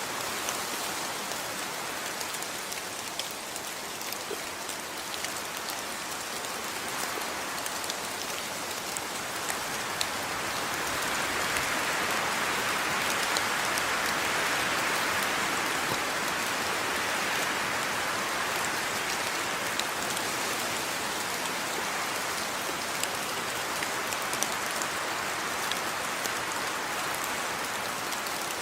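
Steady rain falling on a surface, with scattered individual drops ticking through the hiss. It swells a little in the middle, then settles back.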